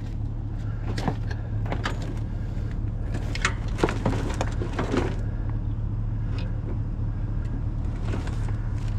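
Scrap wire and cable being handled and sorted: scattered clicks and knocks, a second or so apart, over a steady low hum.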